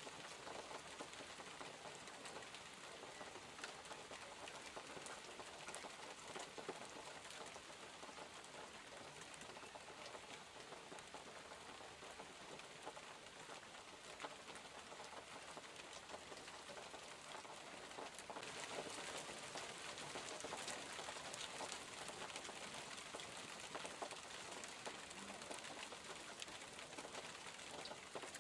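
Steady rain falling on surfaces, a dense patter of drops that grows a little heavier about two-thirds of the way through.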